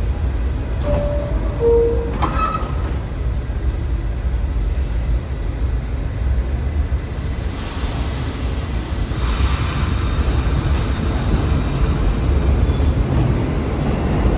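New York City subway trains in an underground station: a steady low rumble, with two short tones about a second in, the second lower than the first. From about halfway a louder rush of wheel-on-rail noise builds as a train moves through, with a brief thin wheel squeal near the end.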